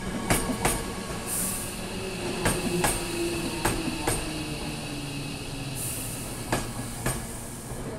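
Hankyu 8000 series electric train rolling slowly past, its wheels clicking over the rail joints in quick pairs as each bogie crosses, four pairs in all. Two short hisses sound about one and a half seconds and six seconds in.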